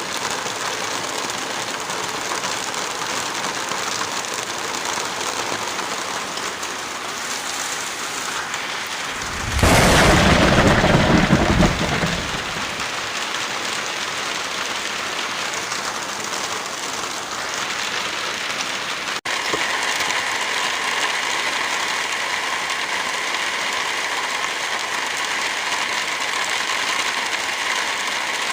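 Steady heavy rain falling, with a loud low rumble of thunder about ten seconds in that lasts two or three seconds. About two-thirds of the way through there is a split-second dropout, and the rain's sound changes character after it.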